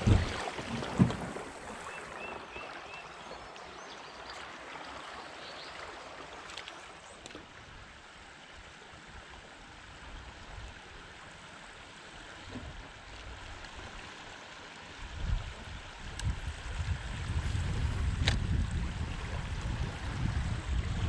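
Fast-flowing creek water rushing steadily past a drifting kayak, with a louder low rumble coming in about fifteen seconds in.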